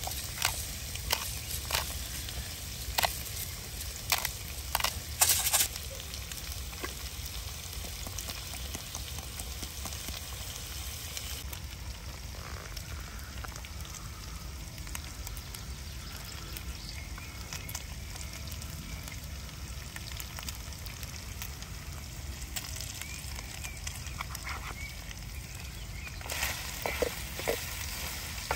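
Food frying in a pan with a steady sizzle. Sharp clicks and knocks come several times in the first few seconds and again near the end.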